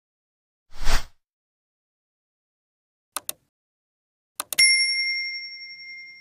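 Edited-in sound effects over digital silence. A brief swish comes about a second in, then a pair of tiny clicks, then two more clicks and a bright bell-like ding that rings on and fades over about two seconds.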